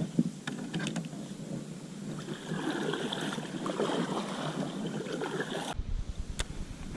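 Water sloshing and splashing around a kayak, with wind on the microphone and a few light clicks; the sound cuts off suddenly near the end.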